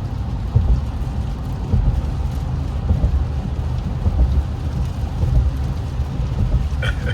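In-cabin sound of an Infiniti Q50S driving on wet roads in the rain: a steady low rumble of engine and tyres with a light hiss of rain and spray.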